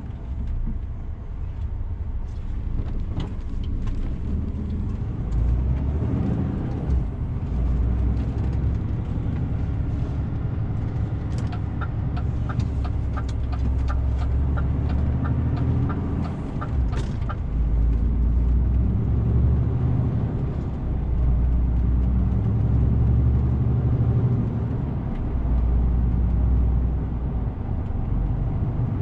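DAF CF 450 truck's diesel engine running steadily while driving, heard from the cab, its low rumble swelling and easing with load. A regular ticking about twice a second joins in for some six seconds midway.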